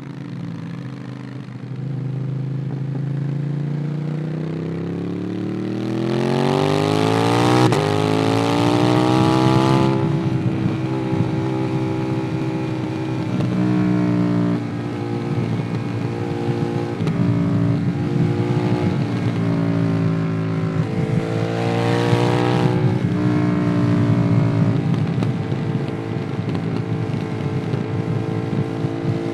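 Ducati Monster 821's L-twin engine through a QD Twin Gunshot exhaust, heard from on the bike. The engine slows at first, then pulls hard with a rising pitch about a fifth of the way in, and runs on with pitch steps like gear changes. There is another strong pull about three-quarters through and a third rise at the very end.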